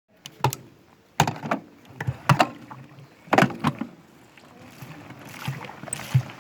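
Indesit WIE127 washing machine drum turning with water inside, giving irregular splashing thuds about once a second over a low hum.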